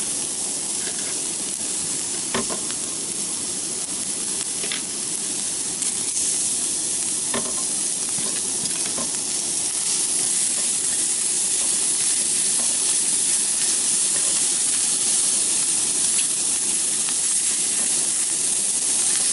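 Chicken and onion sizzling in a hot cast-iron skillet: a steady frying hiss that slowly grows a little louder, with a few light clicks.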